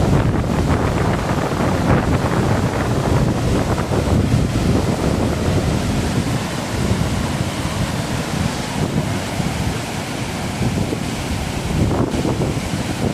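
Waterfall: a steady, dense rush of falling water, heaviest in the low end, with wind buffeting the microphone.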